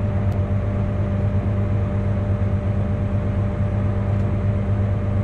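Farm tractor engine running at a steady speed with an even, low drone while its hydraulics slowly unfold a 27-foot disc harrow.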